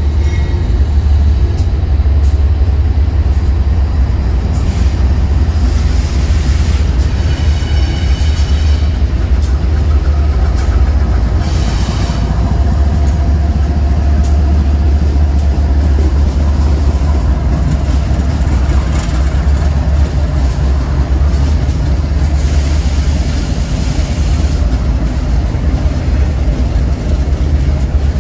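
Freight train rolling past with a heavy, steady rumble of cars on the rails. A brief high squeal from the wheels comes about eight seconds in.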